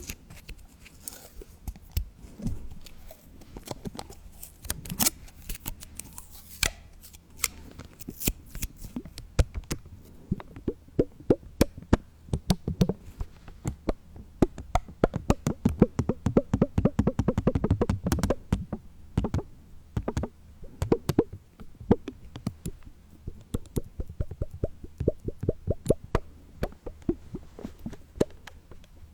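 Many small, sharp taps and clicks, irregular at first, then a fast, dense run of them through the middle, thinning out again toward the end.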